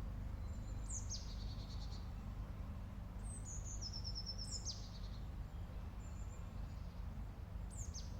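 A songbird singing several short, high songs. Each is a descending phrase with a quick trill of repeated notes, over a steady low background rumble.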